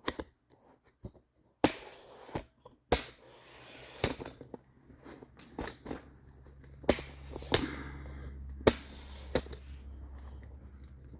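Handling clatter as a camera is picked up and repositioned: a run of sharp clicks and knocks, several of them loud. A low steady hum starts about four seconds in.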